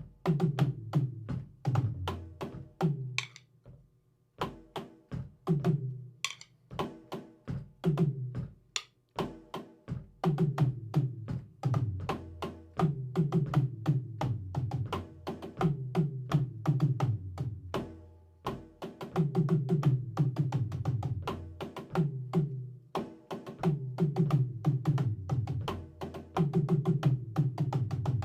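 Drum kit played by a beginner in practice: quick runs of stick strikes over ringing drum heads, in short phrases with brief stops about four and nine seconds in, then steadier playing.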